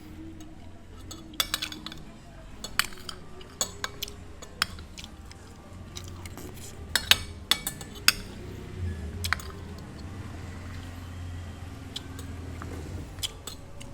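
Dishes and cutlery clinking as food is served: scattered sharp clinks, several in quick bunches, over a steady low background hum.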